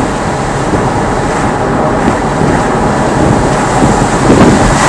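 Car driving, heard through a dashcam microphone inside the cabin: steady road and tyre noise with engine hum.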